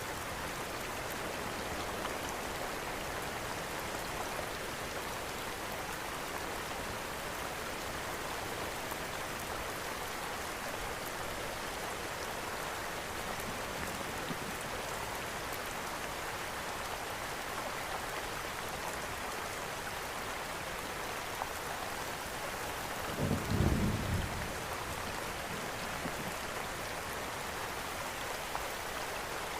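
Steady rain falling, mixed with a crackling fireplace. About 23 seconds in there is a brief low rumble lasting a second or so.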